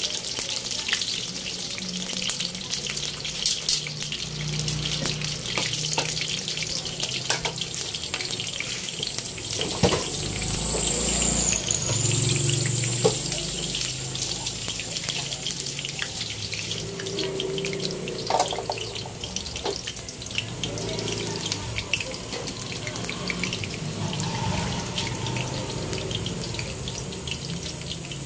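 Eggplant slices deep-frying in hot oil in a wok: a steady sizzle with constant small crackles and occasional louder pops.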